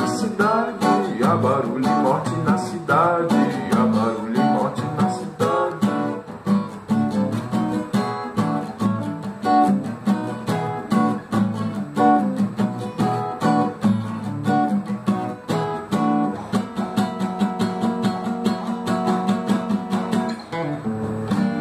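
Acoustic guitar strumming chords in a steady rhythm, the instrumental close of a song.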